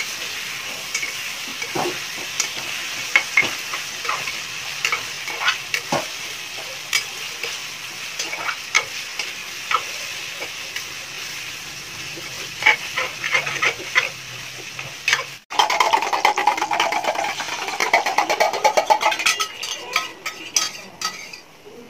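Cornflour-coated chicken pieces frying in hot oil in a metal pot while a steel ladle stirs them: a steady sizzle with irregular scrapes and clinks of the ladle against the pot, about one a second. About two-thirds of the way through the sound cuts suddenly to a denser crackling sizzle of beaten egg frying in oil in a nonstick pan, which dies down near the end.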